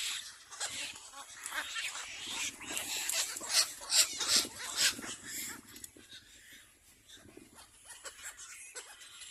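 Young birds making high, squeaky calls in quick runs, thinning out after about five seconds.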